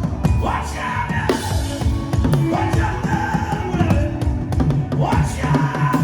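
Drum-driven music: a busy, fast drum beat with a sung or melodic line gliding over it.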